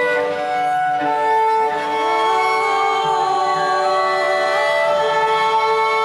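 Cello music: several long bowed notes held together, with a slide up in pitch about two seconds in.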